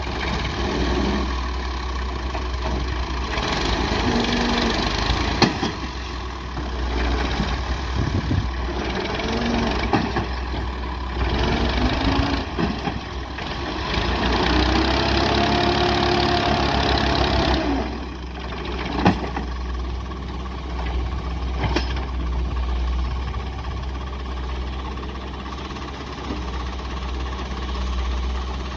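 Massey Ferguson MF 240 tractor's diesel engine running steadily, rising and falling in pitch several times.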